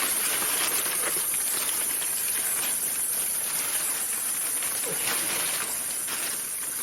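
Steady, high-pitched drone of an insect chorus, with a few faint knocks.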